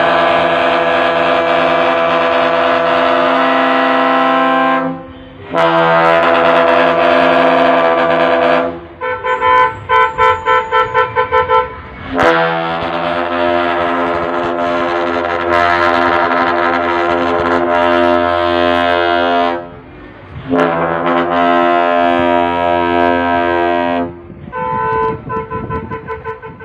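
Multi-tone 'telolet' truck air horn playing long held chords, cut by short gaps. It breaks twice into runs of rapid staccato blasts, about four a second: once around the middle and again near the end.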